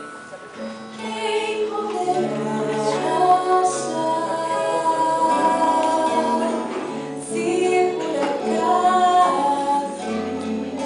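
Music: a song with a woman's singing voice over held accompanying notes.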